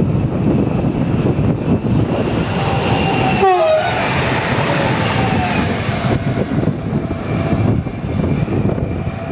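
Stadler FLIRT electric multiple unit passing close at speed: a rush of wheels and air builds up and fades, with a whine that drops sharply in pitch as the train goes by about three and a half seconds in. Wind on the microphone is heard throughout.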